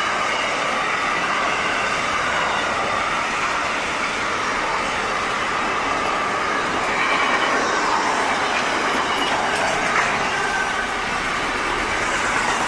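Freight train wagons rolling past, with a steady rumble and rattle of steel wheels on rail. Faint wheel squeals come and go in the second half, and there is a single sharp knock about ten seconds in.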